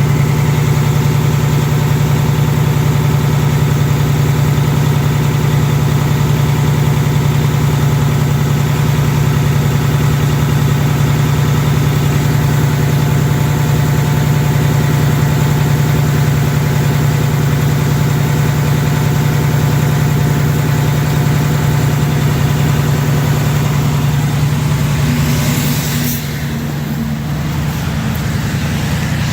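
2019 Ford Mustang GT's 5.0-litre Coyote V8 idling steadily, still warming up after a cold start, with no typewriter-like tick to be heard. A brief hiss comes near the end, after which the engine sounds a little quieter.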